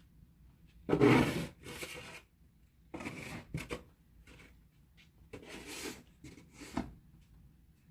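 Snow shovel scraping and pushing heavy, wet snow in about five short strokes, the loudest about a second in.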